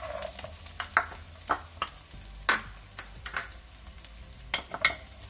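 Chopped ginger and garlic frying in hot oil in a non-stick pan with coconut pieces and curry leaves: a faint steady sizzle with scattered sharp crackles and pops.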